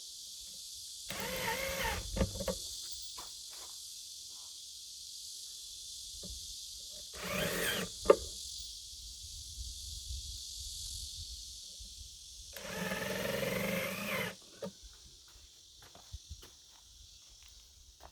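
Three bursts of scraping or tool noise, about five to six seconds apart, with scattered knocks and clicks between them, over a steady high hiss that fades out near the end.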